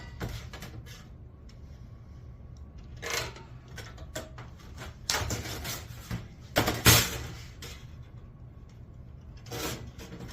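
Hand snips notching galvanized sheet metal: a few separate sharp snips and clanks of the metal, the loudest about seven seconds in, over a low steady hum.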